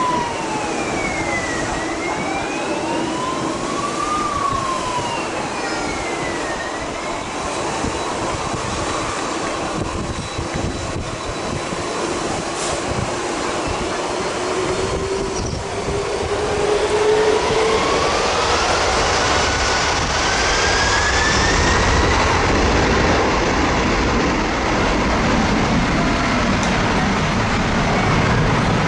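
Boeing 747 jet engines spooling up for takeoff: a steady turbine whine that climbs in pitch about halfway through as a low rumble builds and the sound grows louder. Wavering, rising and falling whistle tones are heard in the first several seconds.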